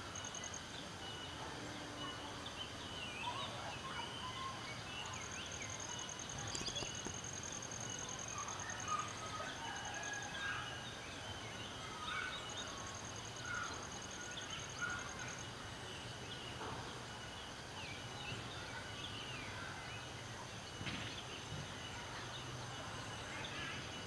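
Birds calling: many short, scattered chirps and calls, with a high, fast pulsing trill that comes and goes and a faint steady high tone underneath.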